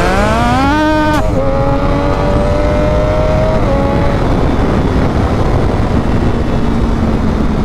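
Sport motorcycle engine, a Triumph Daytona 675R, accelerating hard. The revs climb steeply for about a second, drop suddenly at a gear change, and climb again more slowly. About four seconds in the engine note falls away, leaving a steady rush of wind noise.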